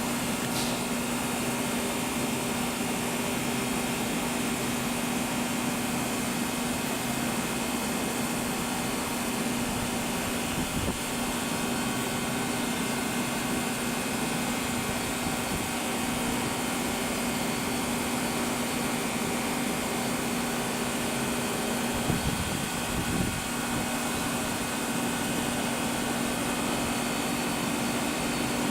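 Airbus A318 jet engines running at a steady setting: an even rushing noise with a steady whine that holds unchanged throughout. There are two brief bumps about three-quarters of the way through.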